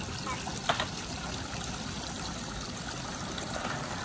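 Water trickling and running steadily, with one small sharp click about three quarters of a second in.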